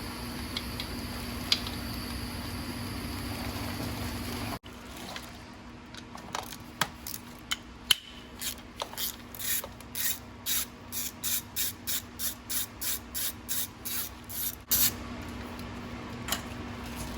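Hand ratchet wrench clicking through a run of short, even strokes, about two or three a second, from about halfway in until near the end, working fasteners on the oil filter housing of a 6.0L diesel. A steady low hum sits under the first few seconds.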